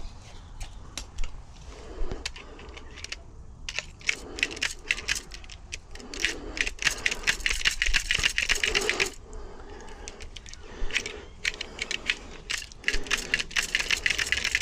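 Rapid metallic clicking and rattling from a UPVC door gearbox's latch mechanism being worked by hand, freshly dosed with graphite. The clicking comes in dense runs, busiest in the middle and again near the end.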